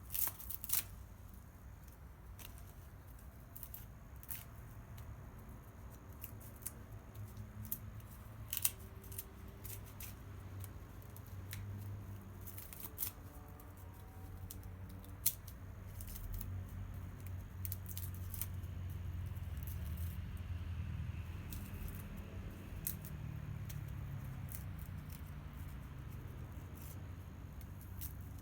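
Wood bonfire crackling, with irregular sharp pops and snaps over a steady low rumble that grows stronger in the second half.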